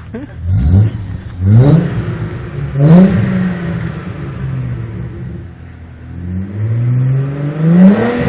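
Audi A4 2.8-litre V6 engine revved with three quick blips of the throttle in the first three seconds, then a slower, longer rev that climbs near the end and drops back.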